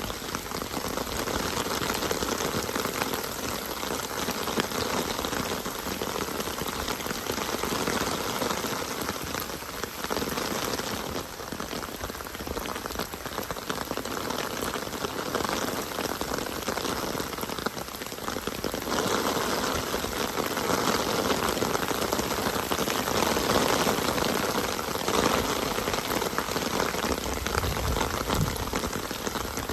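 Rain falling steadily, a dense continuous hiss that swells and eases slightly in loudness.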